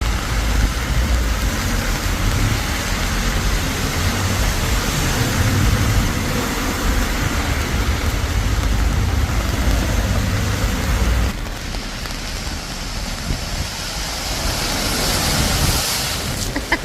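Steady rain, with a deep rumble underneath that cuts off abruptly about eleven seconds in while the rain goes on.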